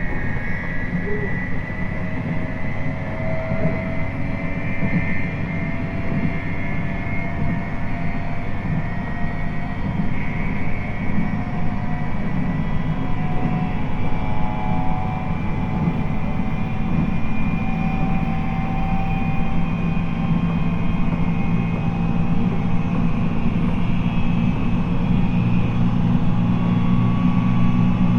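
JR East 719 series electric train running at speed, heard from inside the car: a jet-like whine of steady tones that drift slowly in pitch over the low rumble of the running gear, growing slightly louder. This unit is one of the 719 series cars known for this unusual jet-like noise.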